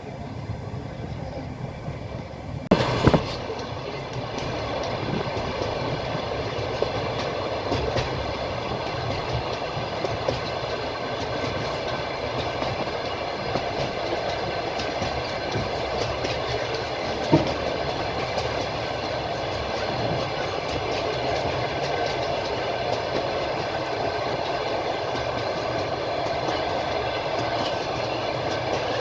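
Passenger train coach running along the track, the wheels clicking over rail joints with a steady rolling noise. A loud double knock comes about three seconds in, and a single sharp knock near the middle.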